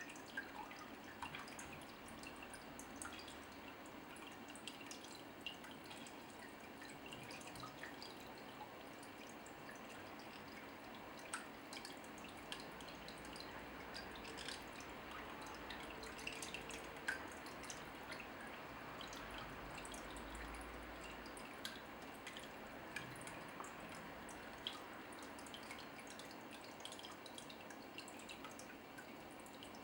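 Water dripping and trickling steadily in a small room, with many small, irregular drips.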